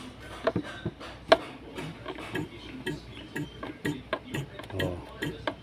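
Irregular light clicking and ticking, about two to four clicks a second, from a hand-operated one-way suction pump being squeezed to draw trapped air out of a car's cooling system.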